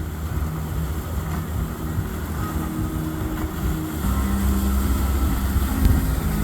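Motorboat engines running as boats pass, a steady low drone that grows louder about four seconds in.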